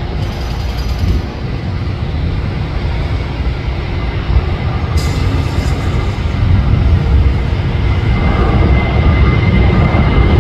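Jet airliner engines making a loud, broad rumble that grows a little louder, with a high steady whine coming in near the end.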